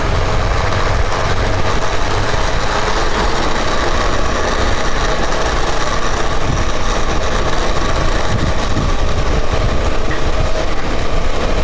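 Motorcycle engine running steadily under way on an uphill ride, mixed with road and riding noise.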